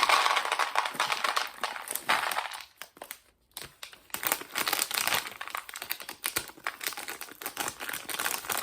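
Cocoa Puffs cereal poured from the box's plastic liner bag into a bowl, a dense rush for the first two seconds or so. After a brief pause, the plastic bag crinkles on and off.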